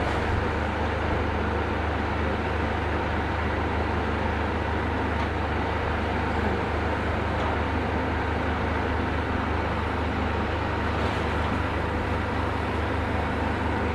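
Demolition excavator's diesel engine running steadily, a constant low hum with no distinct crashes or impacts.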